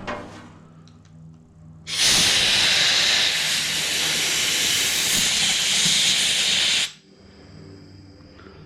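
A loud, steady hiss of a pressurised jet blown through the Toro push mower's carburetor passages to confirm they are clear. It starts about two seconds in, lasts about five seconds and cuts off sharply.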